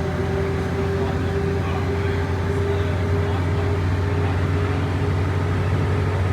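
Engine of an ex-State Transport Authority Sydney bus, fleet number 3532, running steadily while the bus is under way, heard from on board. It gives an even hum.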